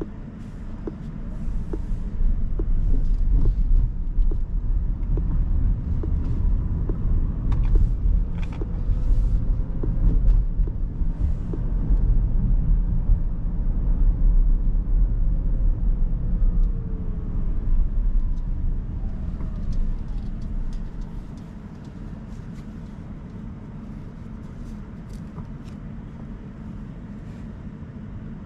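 Road and tyre rumble inside the cabin of a 2023 Rivian R1S Quad Motor electric SUV under way. It swells over the first couple of seconds as the SUV speeds up, stays loud, and falls back to a quieter steady rumble about three-quarters of the way through.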